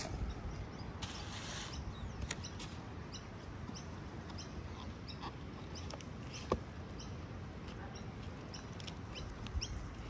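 Birds chirping: many short, high chirps every half second or so, with one louder, lower chirp about two thirds of the way through, over a steady outdoor background hiss.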